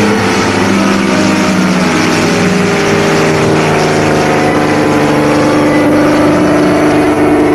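Propeller aircraft's piston engine droning steadily in flight, its pitch shifting slightly in the first few seconds and then holding.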